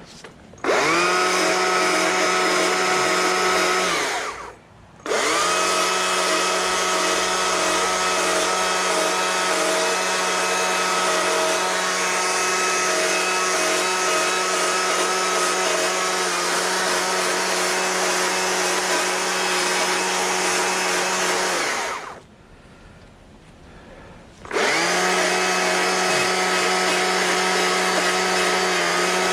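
Electric power carving tool's motor running at a steady high pitch while cutting a fur pattern into wood. It runs in three long stretches, twice winding down and briefly stopping before it spins up again.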